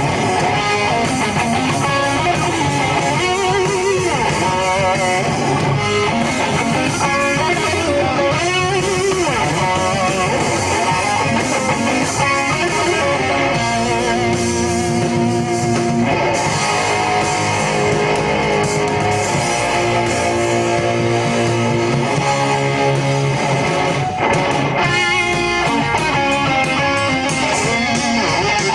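Live rock band playing an instrumental passage, led by electric guitar over bass and drums.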